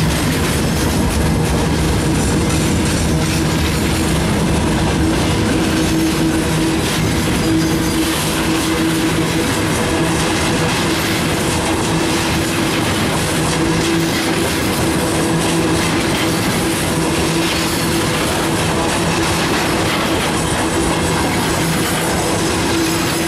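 Freight wagons, open gondolas and hopper cars, rolling past in a long train: a steady, loud rumble and clatter of steel wheels on the rails, with a constant low hum underneath.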